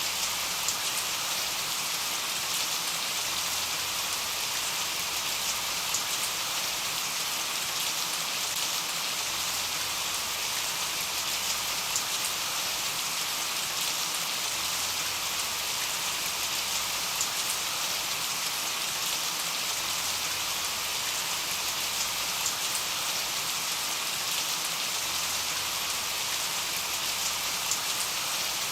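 Steady rain falling, a continuous high hiss with scattered sharp drop ticks.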